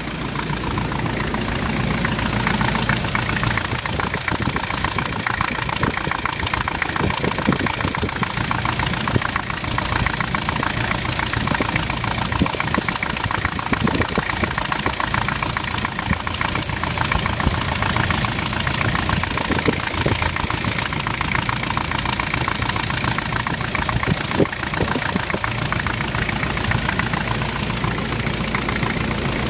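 Jeep's VM Motori 2.5 TD four-cylinder turbodiesel running steadily, with a knock in the engine.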